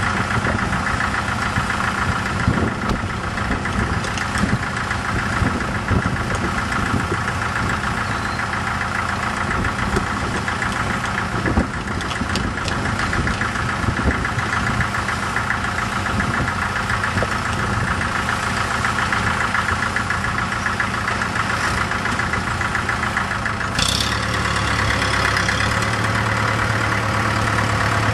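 1954 Farmall Super MTA's four-cylinder diesel engine running steadily; its note changes about 24 seconds in, just after a brief sharp click.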